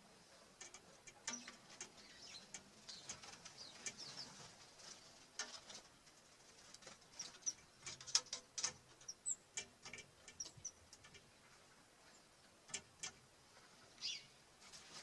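Small birds at a wooden bird feeder: irregular tapping and clicking as they peck, with a few brief high chirps, one near the end.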